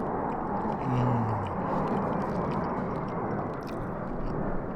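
A short, low hummed "mm" about a second in, falling in pitch, over a steady background din with faint clicks.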